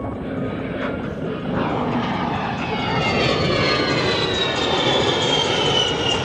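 A-10 Thunderbolt II's twin TF34 turbofan engines on a low pass: a loud rushing roar that builds about a second and a half in, with a high whine gliding steadily down in pitch as the jet goes by.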